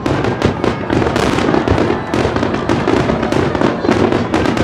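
Aerial fireworks in a rapid barrage: many shell bursts and crackling reports a second, over a continuous deep rumble of launches and explosions.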